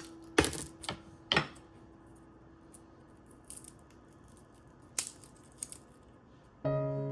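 A few sharp clicks and knocks from handling during cooking prep: three close together in the first second and a half, a couple of fainter ones later, and another about five seconds in. A held music note fades out at the start, and background music comes back in near the end.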